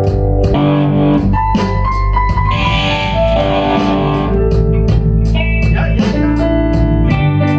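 Blues-rock band playing live: electric guitar over bass and drums with a steady beat, and organ underneath.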